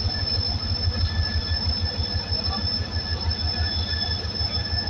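Diesel locomotive pulling slowly into a station: a deep, pulsing engine rumble with a steady high-pitched metal squeal from the train running over the rails.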